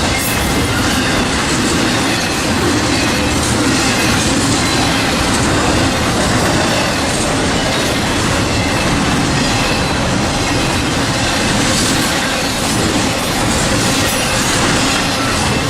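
Norfolk Southern freight train rolling past: a loud, steady rumble of steel wheels on the rails that holds throughout, with a faint high squeal riding over it.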